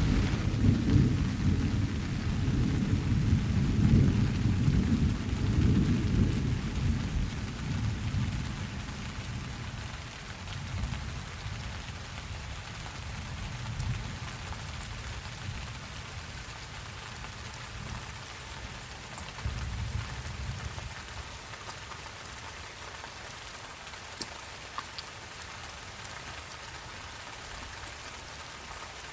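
Steady rain falling, with a long rolling rumble of thunder that fades away over the first eight seconds or so, and a fainter rumble about twenty seconds in.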